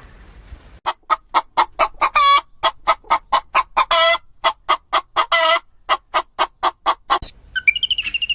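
A bird giving a rapid run of short calls, about four a second, with a few longer drawn-out calls among them; the calls stop about a second before the end.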